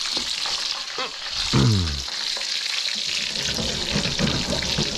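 Breaded schnitzel cutlet frying in hot oil in a skillet: a steady, busy sizzle and crackle. About a second and a half in, a short low groan falls in pitch.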